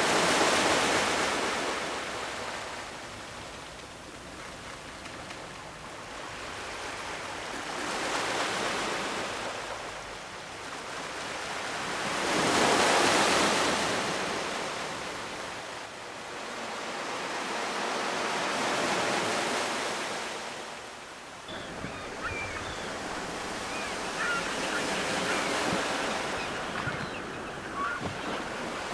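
Ocean waves breaking on a shore and washing back, rising and falling in slow surges about five times, the loudest about halfway through.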